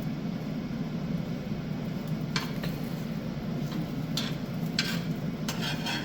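A few short scrapes and clicks of a cooking utensil against a frying pan, about a handful over several seconds, over a steady low hum.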